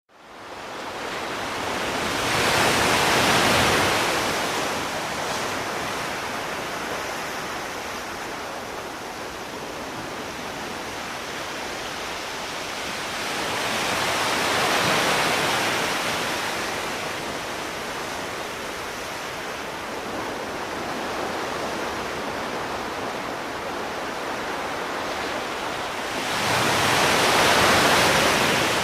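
Sea waves washing on a shore: a steady rush of surf that swells three times as waves break, roughly every twelve seconds, fading in at the start.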